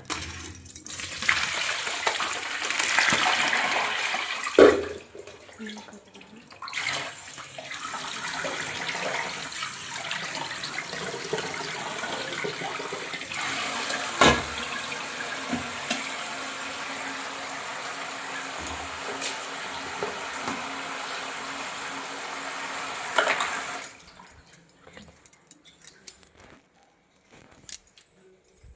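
Water running from a tap into a sink, with two sharp knocks, the first about five seconds in and the second about halfway through. The water stops about four seconds before the end, leaving a few faint clicks.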